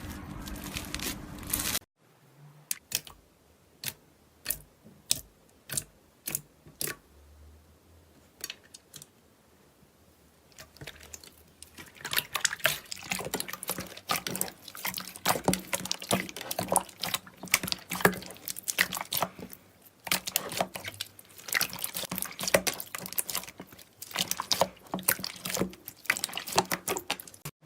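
Slime being squished and poked by hand: wet clicks and pops, sparse at first and then coming thick and fast about halfway through, after a short crackly stretch at the start.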